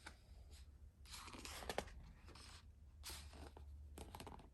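Faint rustling of paper, twice, with a few small clicks: a picture-book page being handled and turned. A low steady hum runs underneath.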